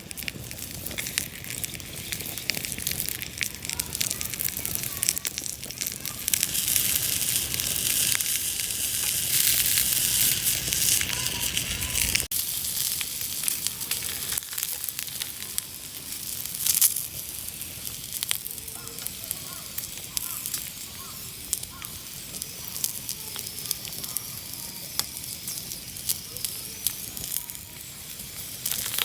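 Wood fire crackling while wieners sizzle over it: a steady hiss peppered with sharp pops. The sizzling swells louder for several seconds and cuts off abruptly about twelve seconds in, then the quieter crackle and sizzle carry on.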